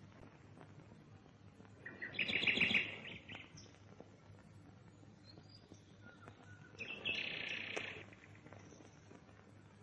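A bird gives two bursts of rapid chattering calls, one about two seconds in and one about seven seconds in, over a faint steady hiss.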